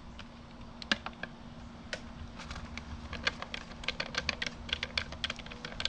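Rapid, irregular light clicks and ticks of a small Phillips screwdriver turning screws on a lathe's sheet-metal electronics panel, growing busier after the first couple of seconds, over a faint steady hum.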